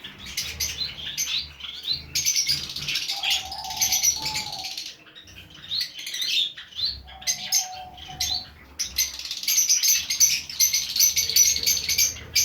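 Caged Java sparrows chirping rapidly and continuously, with wings fluttering. Twice, a lower wavering note about a second long sounds under the chirping.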